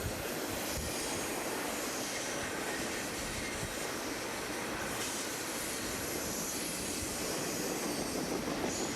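Train cars rolling past on steel rails, a steady rumble and rush of wheels on track, with faint high-pitched wheel squeals now and then.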